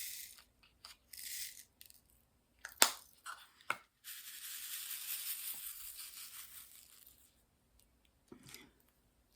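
Close handling noises from craft work: short rustling scrapes, two sharp clicks about three seconds in, then a longer scraping rustle lasting about three seconds.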